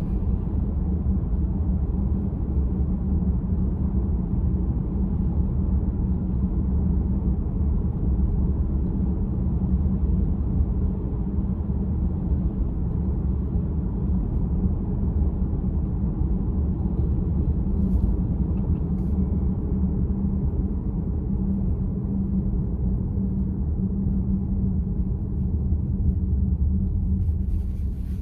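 Steady low road and tyre rumble inside the cabin of a Volkswagen ID.4 electric car on the move.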